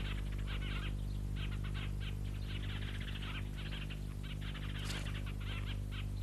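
Small birds chirping in short repeated bursts over a steady low hum. A single short click comes about five seconds in.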